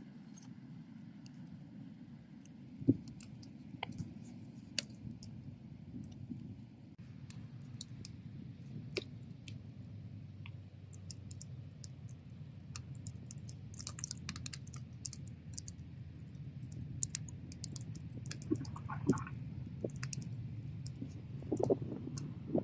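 Wood bonfire burning: a steady low rush of flame with scattered sharp crackles and pops from the burning wood, one loud pop about three seconds in and denser bursts of crackling in the middle and near the end.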